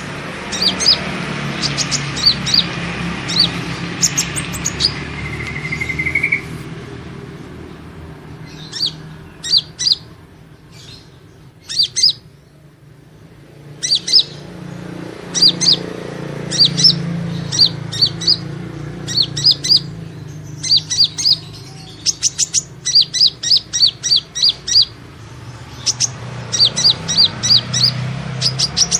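Kolibri ninja sunbird calls used as a bird lure: runs of quick, sharp, high chirps repeated in bursts, with a quieter pause near the middle, over a steady low hum.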